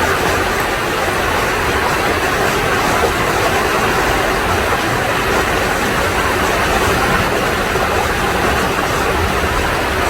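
Stream water rushing in a steady, unbroken hiss.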